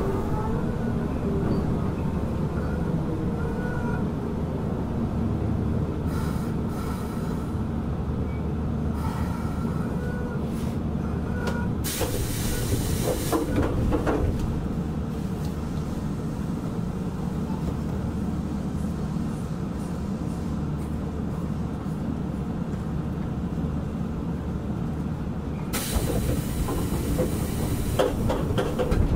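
Keisei 3400 series electric train running at speed, heard from inside the car: a steady rumble of wheels on rail. Brief hissing noise bursts come in about twelve seconds in and again near the end.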